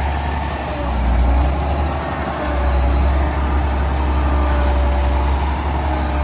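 Heavy diesel earthmoving machinery running: a steady deep engine rumble, its loudness rising and falling gently, with a faint whine that drifts in pitch.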